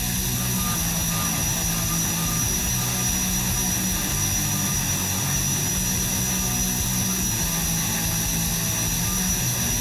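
Grizzly G0759 milling machine running with a steady high whine, milling a jimping notch into a karambit blade.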